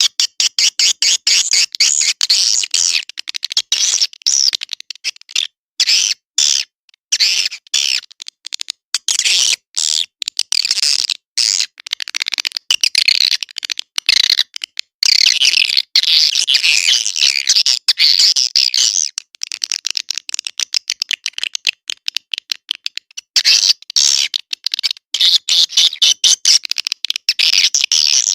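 Swiftlet call lure: dense, rapid, high-pitched twittering of edible-nest swiftlets, broken into short runs by abrupt gaps. It is a recorded call sound played to draw swiftlets into a nesting house.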